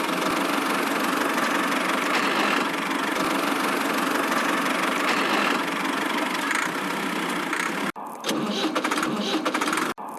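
A small motor or engine running steadily. It cuts off abruptly about eight seconds in, then comes back with short breaks near the end.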